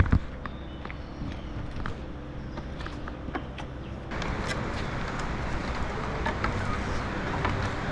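Footsteps walking on an outdoor path, with scattered short steps over a steady low rumbling noise; a broad rushing sound grows louder about four seconds in.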